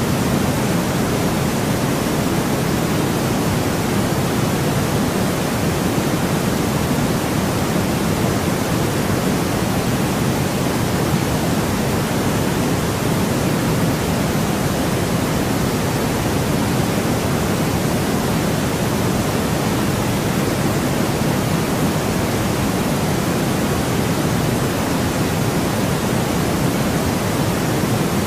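Steady synthetic noise played for sleep, even and unchanging, with more weight in the low-mids than the highs, nearer pink noise than pure white.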